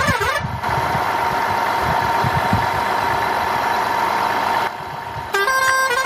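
Electronic engine and siren sound effects from a battery-powered toy tractor. A warbling siren tone stops about half a second in, followed by a steady synthetic engine hum with low rumbles. After a brief dip, a beeping jingle of stepped tones starts near the end.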